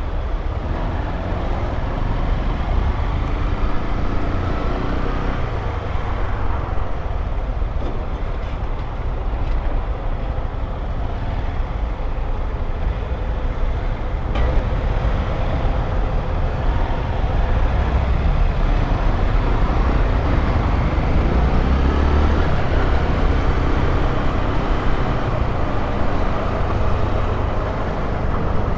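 Honda XRE 190 motorcycle's single-cylinder engine running while the bike is ridden, its pitch rising and falling a few times with the throttle.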